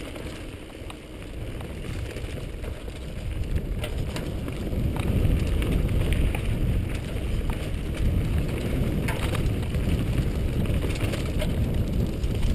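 A mountain bike rattling along a rough trail, with wind rumbling over the microphone and scattered sharp clicks and knocks from the bike; it grows louder from about two seconds in.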